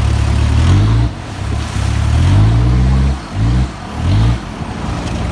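An off-road 4x4's engine revving under load in two rising surges, each dropping back sharply, while crossing a muddy stream. Two short throttle blips follow, then it settles to a lower, steadier run.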